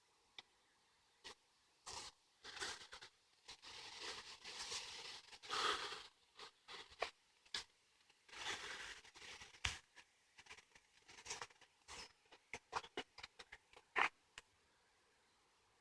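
Footsteps on a woodland path, crunching and scuffing through leaf litter and twigs, with irregular small cracks and rustles.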